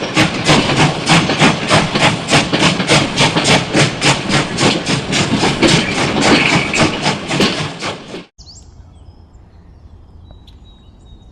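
A small machine running with a loud rhythmic clatter, about four beats a second, that cuts off abruptly about eight seconds in; faint outdoor ambience with a few bird chirps follows.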